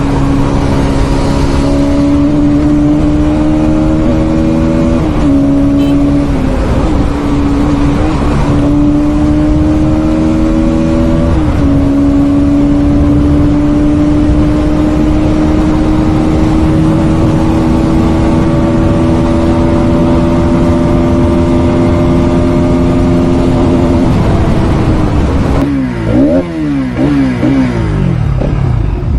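Bajaj Pulsar NS200's single-cylinder engine running hard at highway speed, its pitch climbing slowly with a few brief dips. Near the end the pitch falls and swings quickly up and down a few times as the bike slows.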